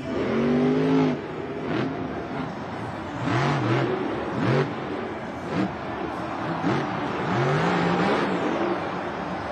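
Monster truck's supercharged V8 engine revving in a series of short rises and falls under hard throttle blips, over a steady noisy background.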